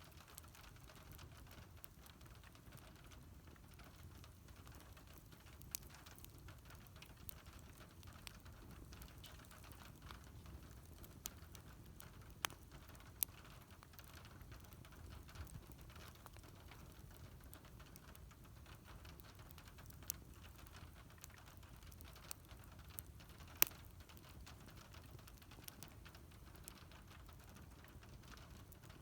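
Wood fire burning quietly, with scattered sharp crackles and pops, a dozen or so, the loudest about two-thirds of the way through, over a faint low rumble.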